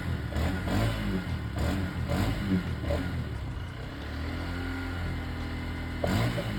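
Honda Grom 125's small single-cylinder engine revved a few times, then settling to a steady idle about four seconds in.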